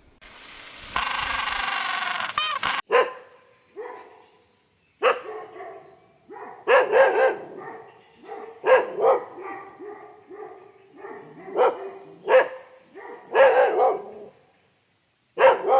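Dog barking repeatedly in short, high-pitched barks at irregular intervals, some in quick pairs, after a drawn-out cry about a second in.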